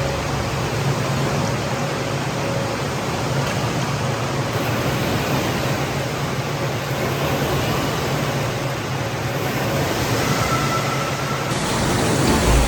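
Steady rushing water noise from a water park wave pool, an even hiss with no rhythm that keeps about the same level throughout.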